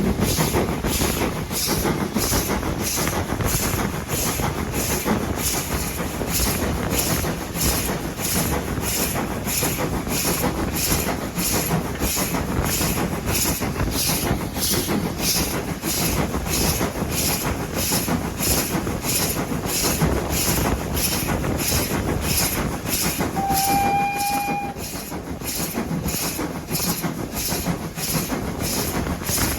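A train running with a steady rhythmic clatter of wheels on the rails. About three-quarters of the way through, a short single-note whistle blast lasts just over a second.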